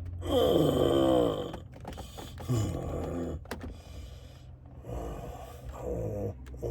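A man groaning in severe nerve pain from an adhesive arachnoiditis flare: a long, loud moan with falling pitch about half a second in, then fainter groans and strained breaths.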